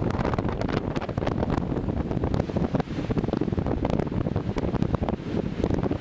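Strong wind buffeting the camera microphone, a constant gusting rumble with crackles.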